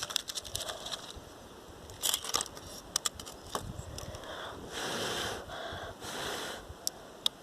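Small firecrackers (bombinhas) popping and a bonfire crackling: scattered sharp pops of uneven strength, the loudest cluster about two seconds in, with two short hissing stretches in the second half.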